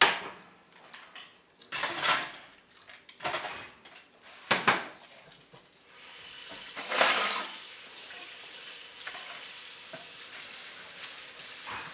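Kitchen clatter of pots and utensils, a few sharp knocks and scrapes, then food frying in a hot pan with a steady sizzle from about halfway through.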